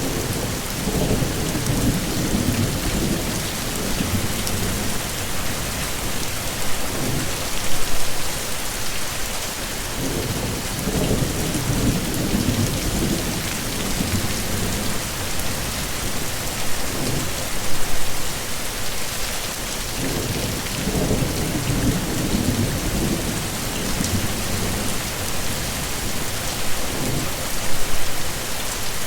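Heavy, steady rain hissing, with low thunder rumbling again and again, a louder swell about every ten seconds.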